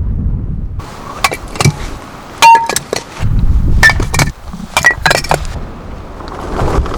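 Wind buffeting the microphone, then a quick series of sharp clinks and knocks from hard objects being handled, a few of them ringing briefly.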